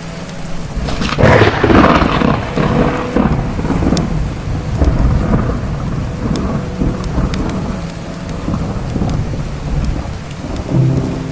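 A thunderclap about a second in that rumbles on for a few seconds over steady rain, with the scattered pops of a crackling wood fire.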